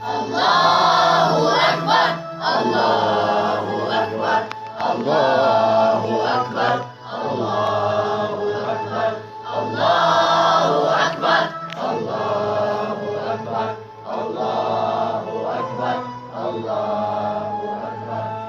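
Music: a group of voices singing a melody in phrases of about two seconds over steady instrumental accompaniment, with no clear words.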